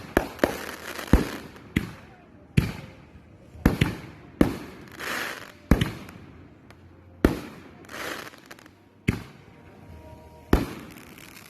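Firework shells bursting in irregular succession, about a dozen sharp bangs, each trailing off in a fading hiss.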